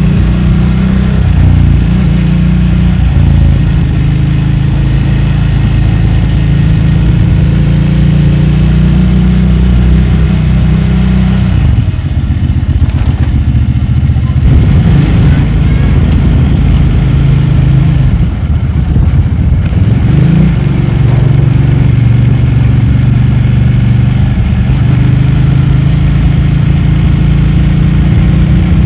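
Motorcycle engine running steadily under way. Its note dips and shifts for several seconds in the middle, then settles back to a steady drone.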